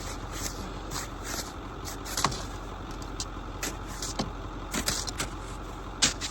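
Kayak paddle digging and scraping snow from around a stuck truck: irregular short scraping strokes, the loudest near the end.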